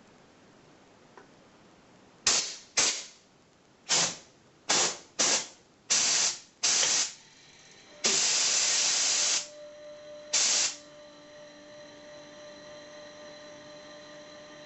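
Compressed air released in short hissing blasts: seven quick bursts, then one longer blast of about a second and a half and one more short burst. A faint, steady hum with a few fixed tones continues after the blasts.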